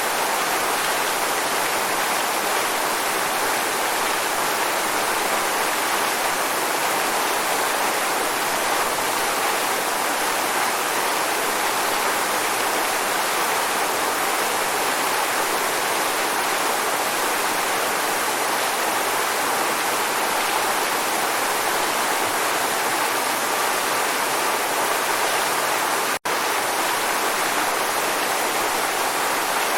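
Waterfall: a steady, unbroken rush of falling water that cuts out for an instant near the end.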